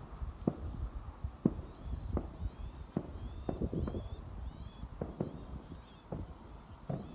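Footsteps at a walking pace, with a songbird chirping in short repeated phrases and a low rumble underneath.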